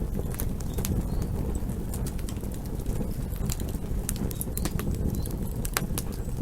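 Campfire burning, with frequent irregular sharp pops and snaps of crackling wood over a steady low rumble.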